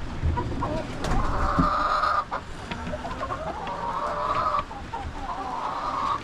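Chickens clucking in a coop, with several hens giving long drawn-out calls: about a second in, again around three seconds, and near the end, with shorter clucks in between.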